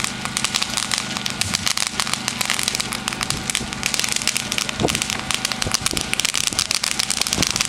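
Consumer firework ground fountain burning with a dense, continuous crackle, a few louder pops standing out, around five seconds in and near the end.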